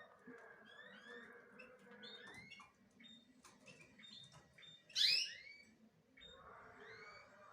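Small birds chirping: many short, quick calls with one louder burst of chirps about five seconds in.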